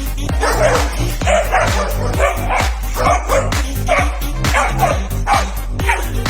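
A dog barking over and over in short barks, about two a second, over background music with a steady bass beat.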